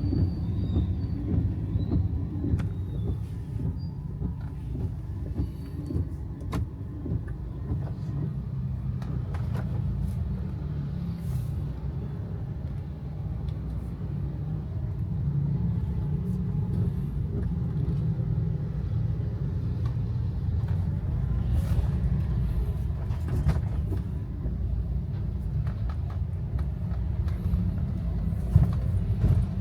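Steady low rumble of a car being driven, with faint scattered ticks.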